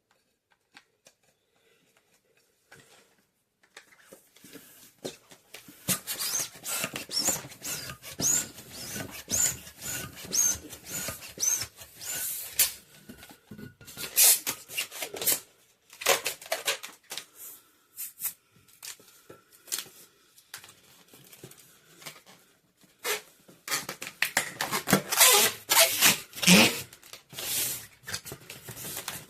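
Long latex modelling balloons rubbing and squeaking as they are handled and twisted, with short high squeaks and several loud scraping strokes, starting a few seconds in.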